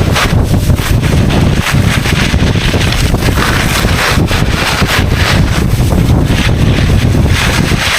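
Wind buffeting the microphone in a loud, steady rumble, with skiboard edges hissing and scraping through the snow in swells that rise and fall as the skier turns.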